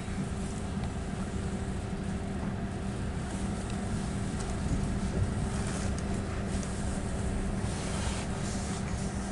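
Passenger train's engine idling while standing at the platform: a steady low hum with a constant tone and some hiss.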